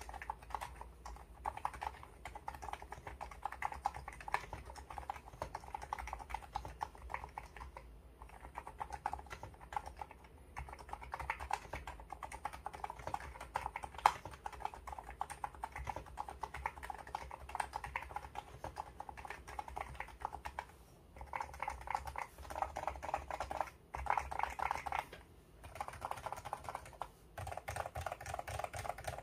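Fast typing on an electrostatic capacitive keyboard: a dense, continuous run of key clacks, broken by a few short pauses in the last third.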